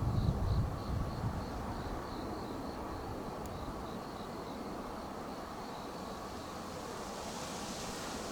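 Wind buffeting the microphone for about the first second, then steady outdoor background noise with a faint high-pitched chirp repeating about three times a second. A hiss swells near the end.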